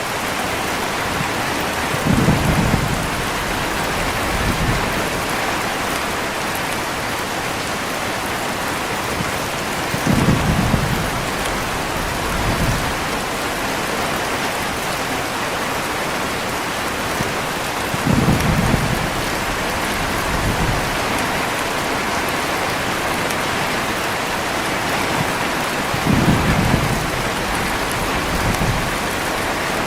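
Heavy rain falling steadily, with low rolls of thunder four times, about every eight seconds, each followed by a weaker rumble a couple of seconds later.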